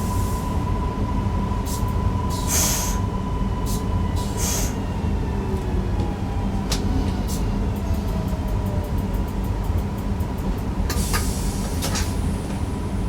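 Newag Impuls EN63 electric multiple unit running, heard from the driver's cab: a steady low rumble of wheels on track under a steady electric whine, with scattered sharp clicks and a quick run of ticks about two-thirds of the way through.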